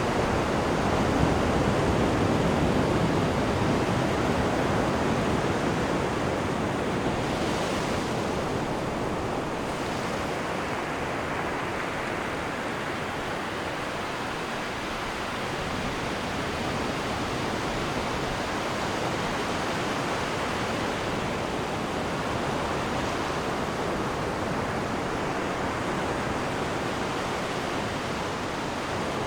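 Sea water rushing and churning in the wake behind a moving cruise ship's stern, a steady wash that swells slightly in the first few seconds and eases off.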